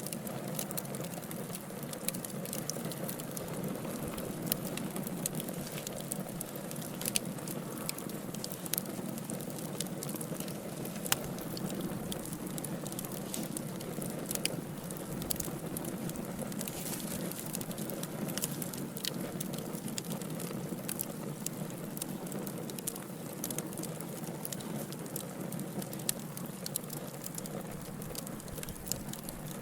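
Wood fire burning in a fireplace: logs crackling and popping with many sharp snaps scattered irregularly, several a second, over a steady low rushing of flame.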